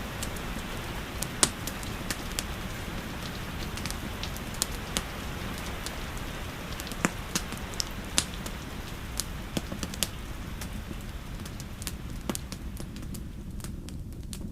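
Steady rainfall with the scattered sharp pops and crackles of a wood fire burning in a fireplace.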